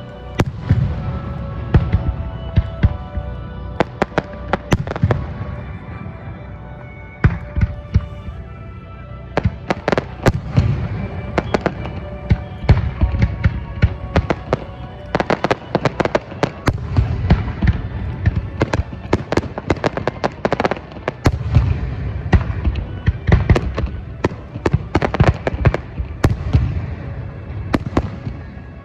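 Fireworks bursting in quick succession: many sharp reports over a deep rumble, thickening in the second half. Music plays under them for roughly the first eight seconds.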